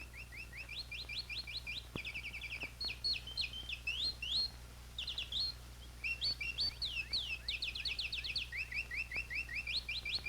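Birdsong: quick runs of short chirps and trills, phrase after phrase with a brief pause midway, over a steady low hum.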